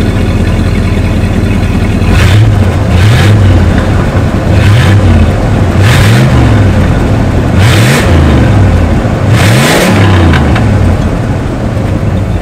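1969 Buick Electra 225's 430 cubic-inch (7-litre) V8 running at idle, then revved in five or six quick throttle blips starting about two seconds in, each rising and falling back toward idle, heard from behind the car at the exhaust.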